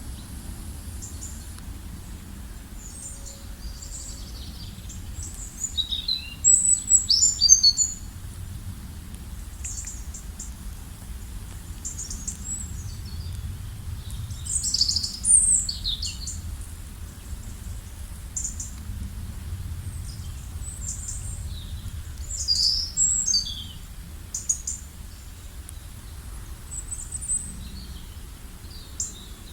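Songbirds chirping and trilling in short, high calls scattered throughout, with a few louder clusters, over a steady low background rumble.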